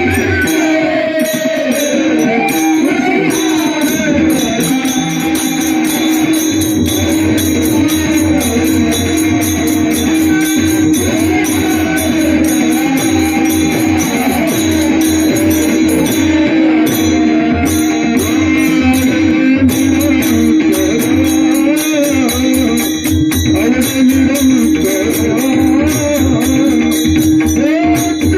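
Varkari kirtan music. A male voice sings long, gliding wordless phrases over a steady drone, while a pakhawaj drum and small hand cymbals keep a continuous rhythm.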